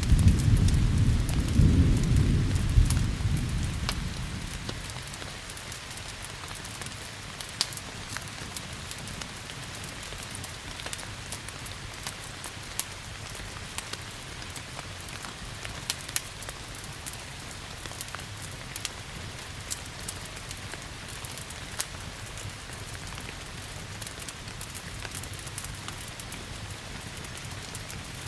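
A low thunder rumble fading away over the first few seconds, over steady rain. Scattered sharp pops and crackles from a fireplace fire run through the rain.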